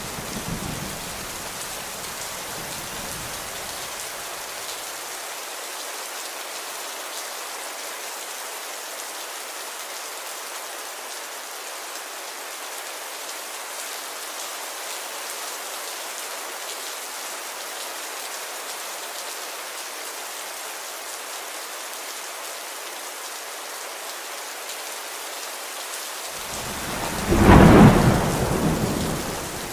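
Steady rain falling, with a low thunder rumble dying away over the first few seconds. A loud peal of thunder breaks in near the end.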